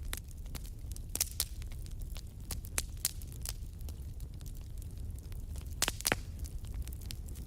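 Campfire crackling: irregular sharp pops and snaps of burning wood, with louder ones about a second in and again near six seconds, over a steady low rumble.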